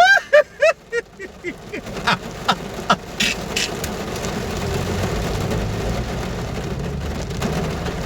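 Rain drumming on a car roof, heard from inside the car. It builds to a steady patter from about three seconds in, after a few short pitched sounds and scattered sharp ticks at the start.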